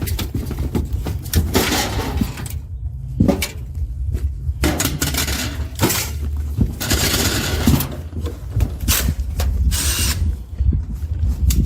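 Tool and handling noise from working on the air conditioner: irregular scraping and clattering in bursts of a second or two, over a steady low hum.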